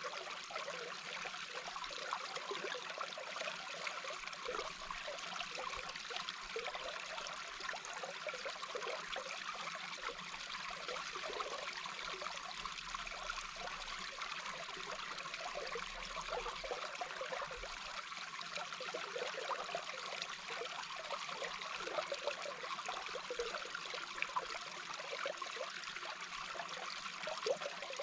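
A small babbling brook heard underwater: a steady rush of flowing water with constant small bubbling flickers.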